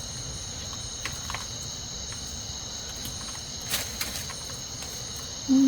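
Steady, high-pitched trilling of insects, with a few light clicks and a sharper click near four seconds in.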